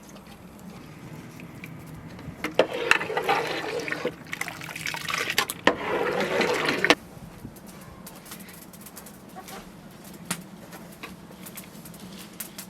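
Liquid being poured in two runs, starting about two and a half seconds in, with a short break about four seconds in, and stopping abruptly near seven seconds.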